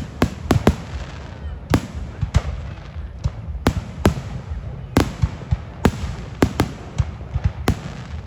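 Fireworks display: a quick, irregular series of sharp bangs and cracks, roughly two a second, each trailing off briefly, over a steady low rumble.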